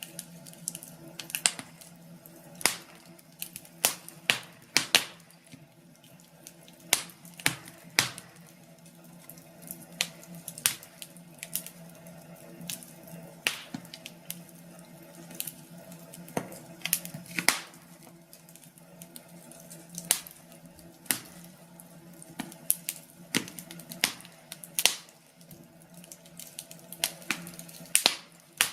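Wood fire burning in a fireplace, crackling with irregular sharp pops and snaps every second or so over a steady low background.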